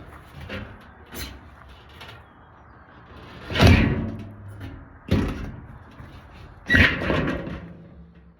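A series of knocks and bangs from a makeshift barrier being handled and fixed up: a couple of lighter knocks early, then three louder bangs spaced a second or two apart, each ringing briefly.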